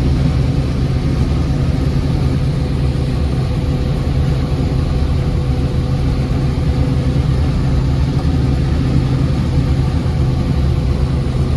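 Combine harvester running steadily: an even engine and machinery drone with a constant low hum and a thin steady tone above it.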